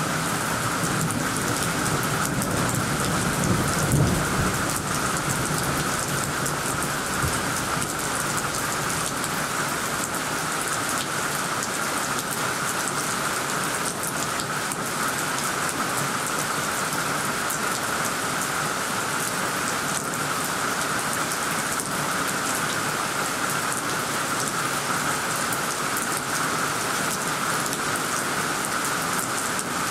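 Heavy rain pouring steadily onto tree foliage. A low rumble of thunder in the first several seconds is loudest about four seconds in.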